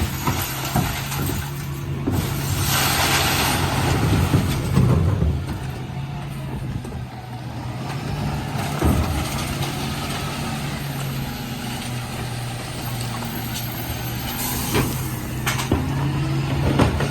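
Dennis Elite 6 refuse truck's diesel engine running steadily, with a loud hiss of compressed air about two seconds in and another near the end, and a few scattered knocks.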